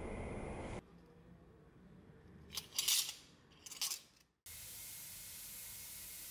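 Sanding noise that cuts off under a second in, then two short bursts of spraying hiss about a second apart, then a steady hiss.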